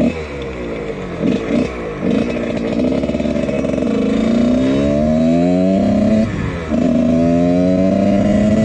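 1999 Husqvarna CR125's single-cylinder two-stroke engine, fitted with a Pro Circuit exhaust, revving hard as the dirt bike is ridden. Its pitch climbs and drops with throttle and shifts: quick blips early on, then long rising pulls, a drop about six seconds in, and another climb.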